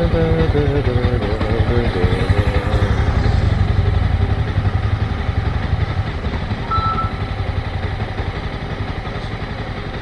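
Motorcycle engine running with a low, pulsing throb, its revs stepping down over the first couple of seconds and then easing off. A short high beep sounds about seven seconds in.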